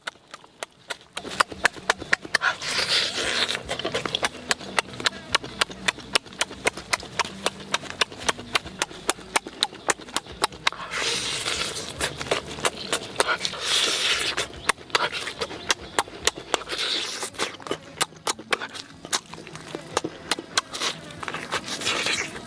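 A person chewing cooked chicken with an open mouth: wet lip-smacking clicks several times a second, with a few longer noisy bursts as meat is torn from the bone.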